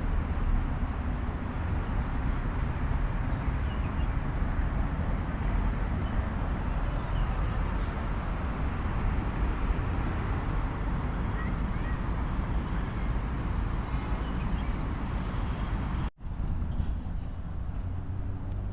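Steady outdoor background noise with a deep rumble. It cuts out abruptly about sixteen seconds in and comes back at a lower level with a faint hum.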